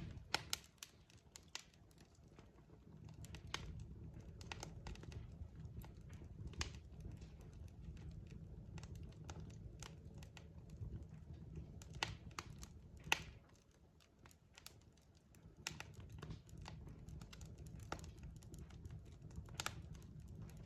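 Wood fire burning in a fireplace: irregular sharp crackles and pops of the logs over a low, steady rumble of the flames.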